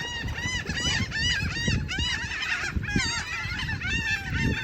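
A large flock of birds calling over one another, a dense chatter of many short, arched calls, as they swarm around a person feeding them bread crusts and cereal.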